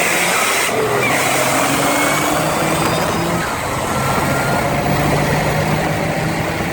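High-horsepower car engine pulling hard at full throttle, its pitch climbing steadily, dropping at a gear change about three and a half seconds in, then climbing again, over a heavy rush of wind and road noise.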